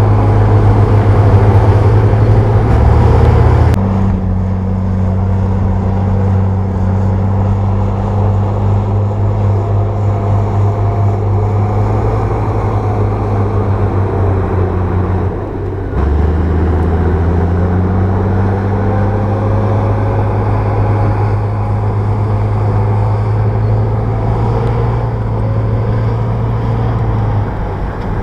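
Bulldozer's diesel engine running steadily at working revs, its pitch and tone shifting abruptly about four seconds in and again about halfway.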